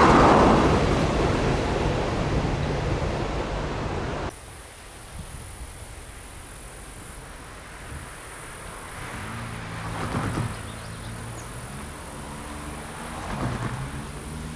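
Passing train's wheels rumbling on the rails, fading over the first four seconds and then cutting off abruptly. After that a quieter low hum swells twice.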